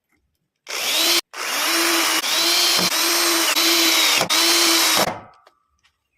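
Electric power tool running with a high whine for about four seconds, cutting out for an instant near the start. Its pitch dips in regular pulses about every two-thirds of a second as it works the surian wood, then it winds down.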